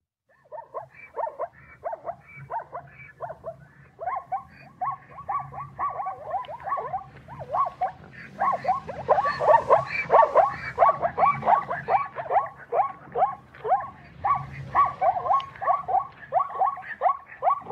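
Plains zebra calling: a long run of short, rapid barking yelps, about three a second, loudest around the middle.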